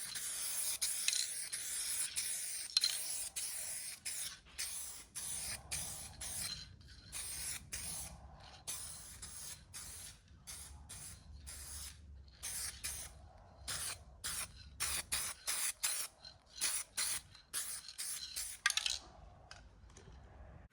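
Aerosol spray can hissing as a light coat is sprayed over a car body repair: one steady spray for the first few seconds, then many short bursts, stopping a little before the end.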